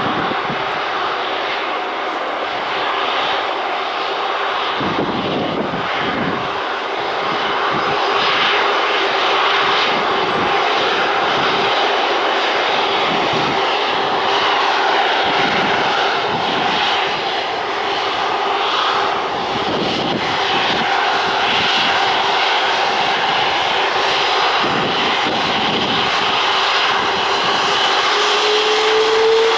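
Airbus A330-243's twin Rolls-Royce Trent 700 jet engines at takeoff power on departure, a loud steady jet noise with a held tone. A whine rises near the end.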